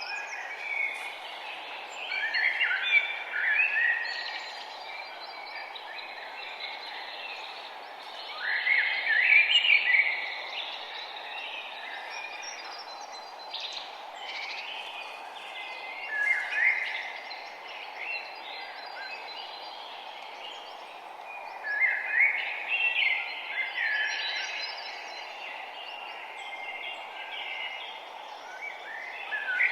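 Wild birds singing and chirping, with louder song phrases coming every few seconds over a steady background hiss.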